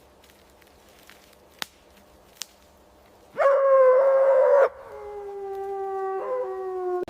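A dog howling: a loud, high howl starts about three seconds in and lasts just over a second, then a longer, lower howl follows that sinks slightly in pitch and wavers briefly near the end. Two faint clicks come before it.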